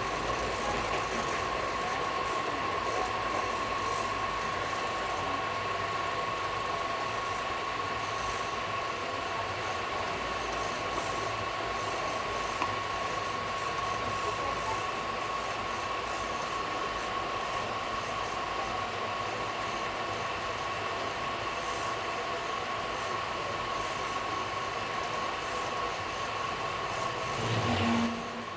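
Passenger train running along the line: the steady rumble and rattle of the coach, with a thin steady whine over it. It swells briefly louder near the end.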